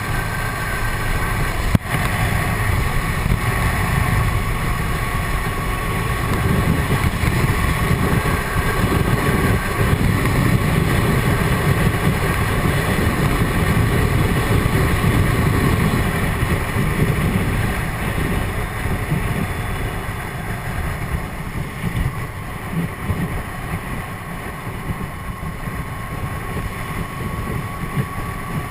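Wind rushing and buffeting around a motorcycle helmet while riding a Triumph Tiger 800XC, with the bike's three-cylinder engine faintly audible underneath. The rush swells in the middle and eases off toward the end, and there is a single sharp click about two seconds in.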